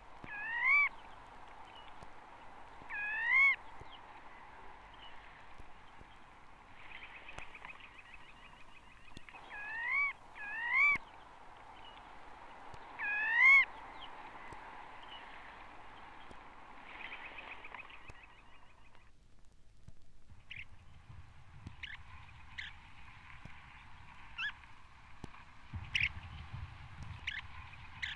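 Long-toed stint calling: clear rising slurred notes, some in quick pairs, with short trills between. After a brief break near the two-thirds mark come shorter, sharper call notes over faint low noise.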